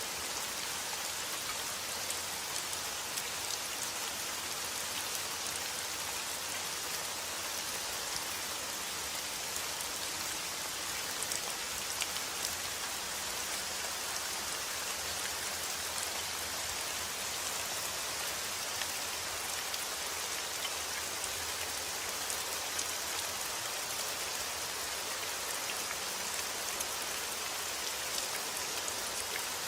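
Steady rain with close, distinct drops pattering on a surface, with no thunder.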